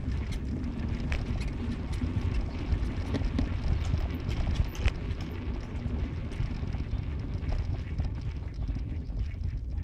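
Car driving, with a steady low road rumble and scattered irregular knocks and clicks.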